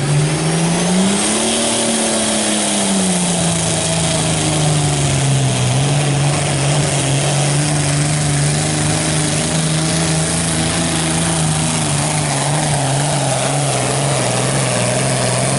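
Hot stock pulling tractor's diesel engine running hard under load as it pulls the sled. Its pitch rises briefly a second or two in, then holds steady.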